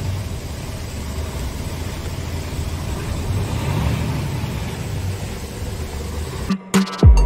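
Heavy diesel engine of a DAF XG truck running steadily, a low rumble that swells and eases slightly. Near the end it cuts abruptly to loud hip-hop beat music with deep falling bass.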